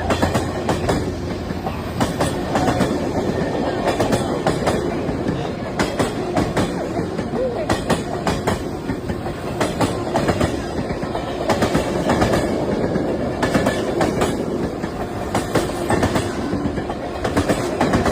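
A train rolling past close by, its wheels clattering over the rail joints in a steady run of clicks over a continuous rumble. It is the train hauled by Union Pacific steam locomotive Big Boy 4014.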